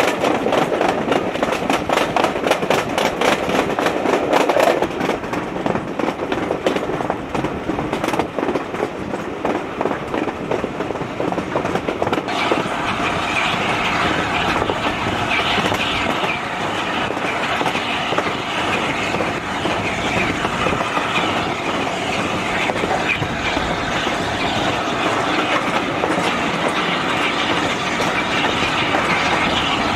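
Steam-hauled passenger train, behind A4 Pacific 60007 Sir Nigel Gresley, running at speed, heard from a carriage window: a steady rumble with rapid clickety-clack of wheels over rail joints. About twelve seconds in the clicking fades and a steadier, higher-pitched hiss with faint wheel squeal takes over.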